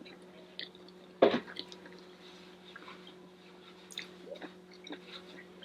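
Close-up chewing and wet mouth sounds of someone eating rice and vegetables, with scattered small clicks and one louder smack about a second in, over a steady low hum.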